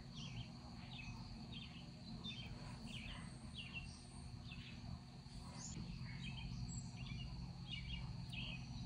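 Faint small birds chirping repeatedly in short calls, over a low steady background hum.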